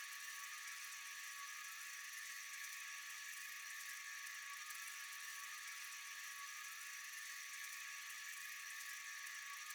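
Steady, high-pitched chorus of night insects, an even shrill hum that does not change. Fireflies themselves make no sound.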